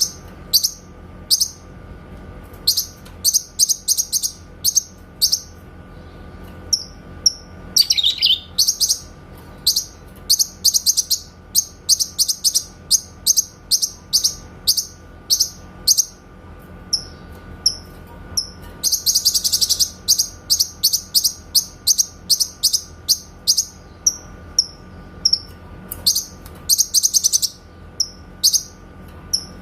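Cucak kinoy singing its clear, rapid 'tembakan' (shooting) song: series of short, high, sharp chirps, with two longer dense runs of very rapid notes about 19 and 26 seconds in and a falling note about 8 seconds in.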